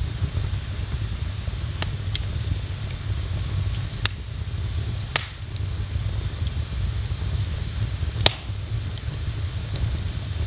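Wood fire crackling in a fireplace, with a few sharp pops, the loudest a little after halfway, over a steady hiss of rain and a low rumble.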